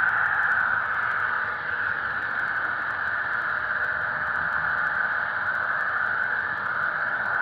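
HO-scale model train running on the layout: a steady whirring rolling noise from the wheels on the track, mixed with the diesel engine sound played by the locomotives' Soundtraxx Tsunami sound decoder.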